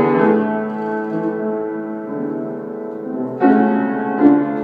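Piano or keyboard playing held chords, with a new chord struck about three and a half seconds in and another shortly after.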